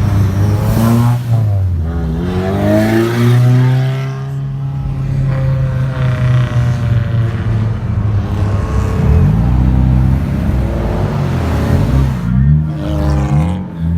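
Car engine revving at a car meet, its pitch climbing and dropping, with a long steady hold in the middle and a run of quick blips near the end.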